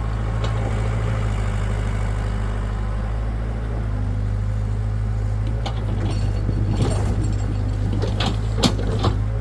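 Hitachi excavator's diesel engine running steadily under a low drone, with a series of sharp knocks and clanks in the second half, the loudest near the end.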